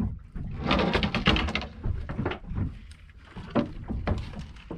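A burst of rushing noise about a second in, then several separate knocks and clatters of gear being handled in a small boat.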